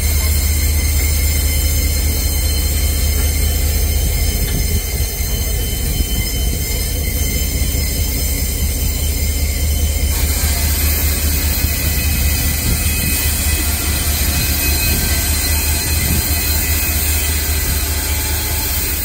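A train running, with a steady low rumble under several thin, steady high whining tones. About halfway through, the rumble turns noisier.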